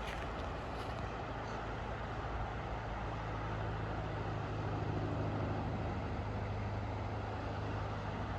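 A motor vehicle's engine running close by: a steady low hum that swells about halfway through and then eases, over an even hiss of outdoor background noise.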